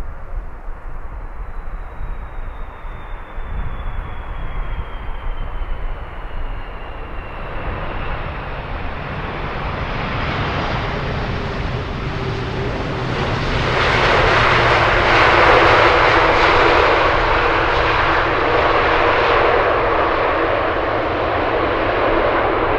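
Jet airliner's engines passing close, with a thin whine falling in pitch over the first few seconds, then the engine noise building to its loudest about two-thirds of the way through and staying loud.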